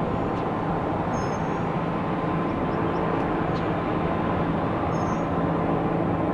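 Jet airliner engines running steadily: a continuous rushing noise with a low, even hum underneath.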